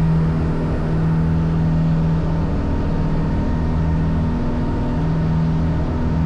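A tour boat's engine running with a steady low drone.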